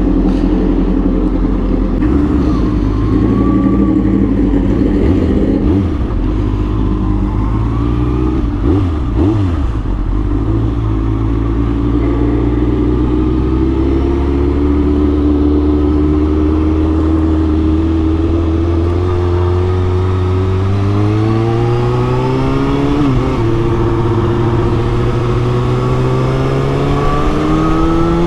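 Kawasaki Ninja ZX6R inline-four sport-bike engine, heard while riding. It holds steady revs at first, then pulls up through the revs in a rising whine, drops sharply at a gear change and climbs again.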